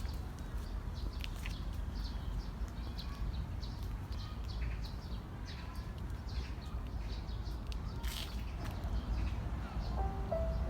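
Small birds chirping in short, repeated high calls over a steady low rumble. Music comes in near the end.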